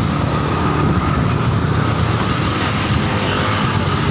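Steady wind noise on the microphone of a moving motorcycle, with engine and road noise underneath, from riding in a strong wind.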